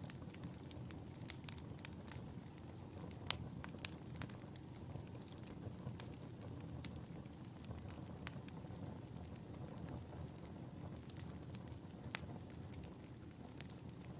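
Fire burning in a fireplace, crackling with irregular sharp pops over a steady low rumble, one pop louder about three seconds in.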